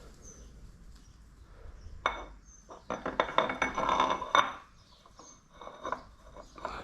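Small metal parts clinking and rattling against each other with a faint ringing, a dense run of clinks about three seconds in and a few scattered clicks either side.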